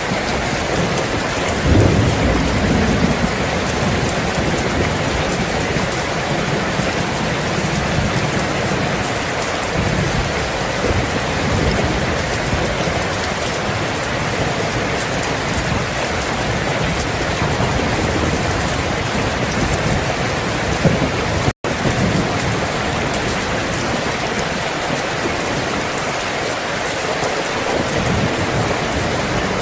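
Steady heavy rain, with low rolls of thunder rumbling underneath, the loudest about two seconds in. The sound cuts out for an instant about two-thirds of the way through.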